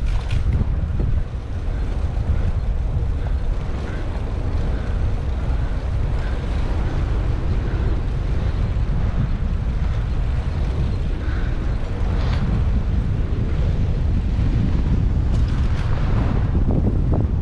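Wind buffeting the microphone of a bicycle-mounted GoPro on a moving bicycle, a steady low rumble mixed with road and traffic noise, with a few short rattles or clicks near the end.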